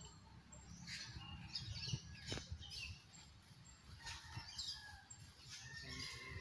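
Faint birds chirping, with short irregular calls overlapping one another, over a low rumble; there is a soft knock about two and a half seconds in.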